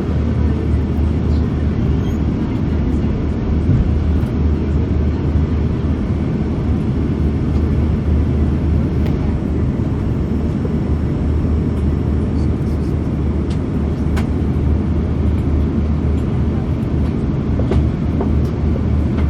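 Steady low rumble of engine and airflow noise inside the passenger cabin of an Airbus A340-600 airliner descending on approach, with a constant low hum under it.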